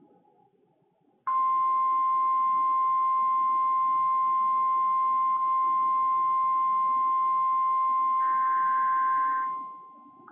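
NOAA Weather Radio warning alarm tone: one steady high-pitched tone starting just over a second in, held about eight seconds and fading out near the end, signalling that an emergency alert message follows. A second, higher tone briefly joins it shortly before the fade, over faint radio hiss.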